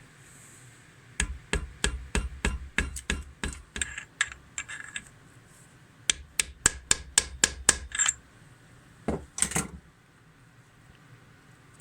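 Sharp tapping on metal engine parts with a hand tool, in two quick runs of about four taps a second, then two more taps near the end.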